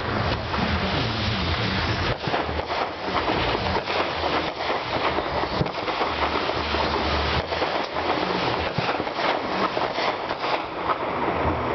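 Fireworks going off in a dense, continuous run of crackles and pops, with no pause and no single standout boom.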